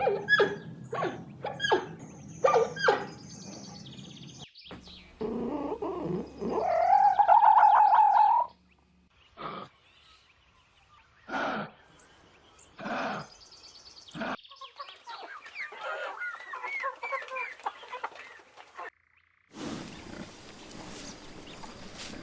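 A sequence of different animal calls, one clip after another: short repeated calls, a loud wavering drawn-out call, a few separate calls, then a stretch of twittering bird chirps.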